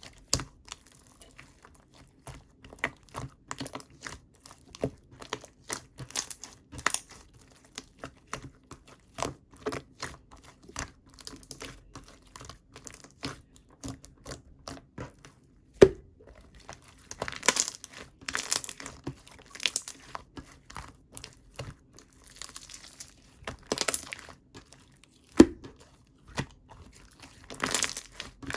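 Hands squishing and stretching a heavy, chewy red slime: a run of small sharp clicks and pops, with longer crackling stretches a little past the middle and near the end.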